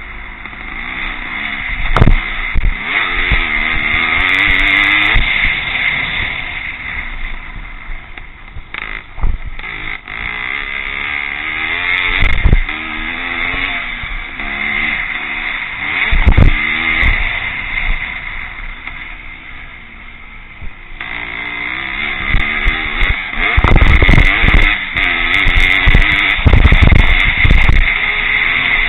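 Vintage pre-1965 motocross bikes racing, their engines revving up and dropping back as they go round the track, with several machines overlapping. The engines grow louder and closer in the last third.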